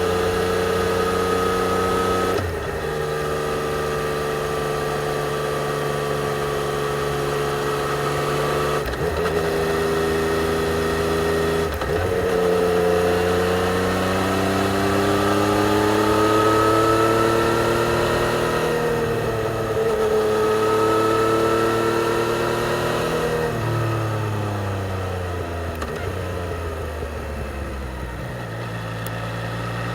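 2020 Yamaha XSR 900's inline three-cylinder engine running through its stock exhaust while riding. The revs hold steady with a few brief breaks, rise and fall several times, drop away in the later part as it slows, and climb again near the end.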